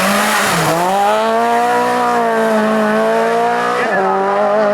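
Hillclimb race car engine running hard at high revs: its note dips briefly about half a second in, then climbs and holds high and steady, with a short break in pitch near the end.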